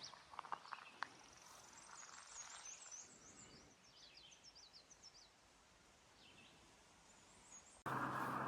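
Faint birdsong of many short chirps, with a few light clicks in the first second or so. Near the end the sound cuts abruptly to a much louder steady vehicle running noise with a low hum.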